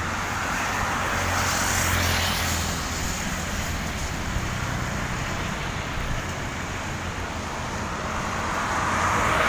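Road traffic passing on a wet road: tyre hiss and engine hum swell as one vehicle goes by about two seconds in and another near the end, over a steady background hiss.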